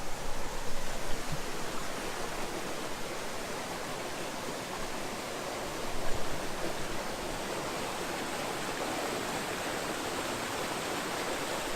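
Stock Ghyll Force waterfall rushing steadily, heard from the foot of the falls.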